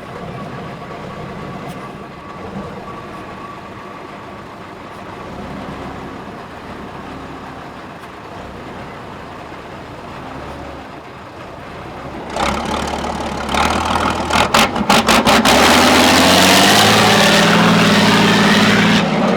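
Heavy off-road trial truck's engine running at low revs, then about twelve seconds in it revs up hard and keeps running loud under load.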